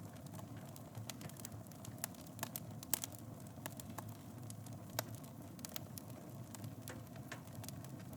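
Fire burning in a fireplace: a steady low rumble of flames with sharp crackles and pops scattered irregularly, the loudest about three and five seconds in.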